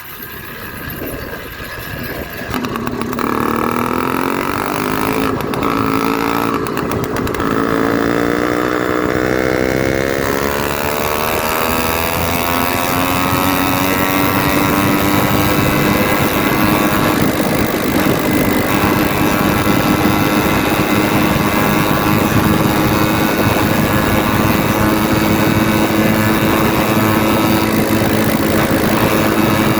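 Zeda 66/80cc two-stroke motorized bicycle engine, running with the muffler cap and air filter off, revving up as the bike pulls away and then holding a steady high-revving drone at speed. The uncapped exhaust makes it loud.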